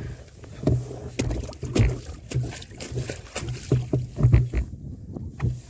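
Irregular knocks and bumps on a canoe's hull, each with a short hollow low ring, as the boat is handled on the shore.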